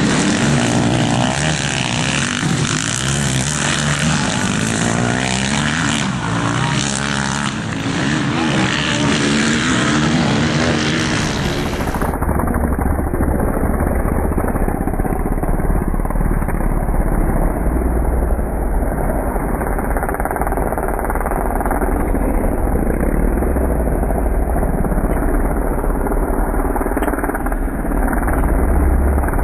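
Motocross motorcycle engines revving up and down as the bikes race around the track. About twelve seconds in, a steady low rumble takes over and the engines sound fainter beneath it.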